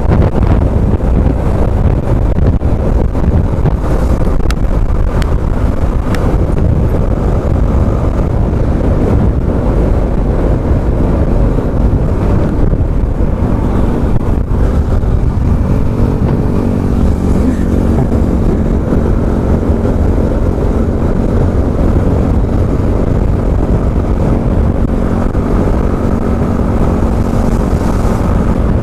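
Wind rushing over the helmet microphone while a Yamaha R15M's 155 cc single-cylinder engine runs at a steady cruise; the engine's hum comes through clearer from about halfway in for some twelve seconds before the wind covers it again.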